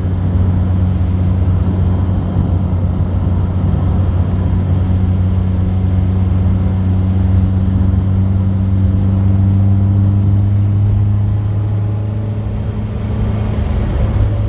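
Classic car's engine droning steadily inside the cabin while cruising, with road and tyre rumble underneath. The engine note eases off briefly near the end, then picks up again.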